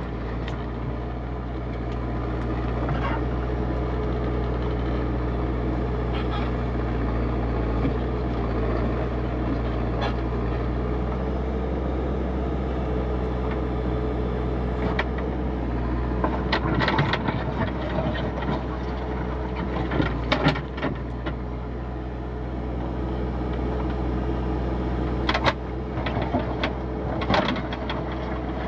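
Backhoe loader's diesel engine running steadily while digging, with scattered sharp knocks from the working machine, grouped about halfway through and again near the end.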